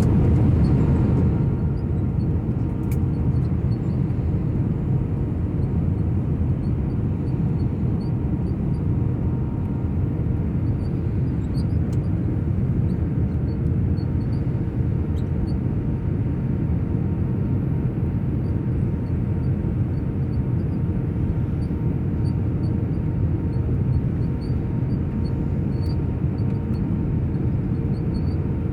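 Cabin noise inside an Airbus A319 airliner during landing: a steady low rumble of engines and airflow with a faint steady hum, slightly louder in the first second or so.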